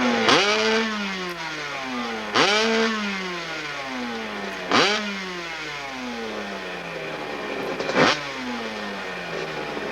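Hillclimb motorcycle engine revved hard in four sharp throttle bursts, its pitch jumping up at each and falling away over the following couple of seconds.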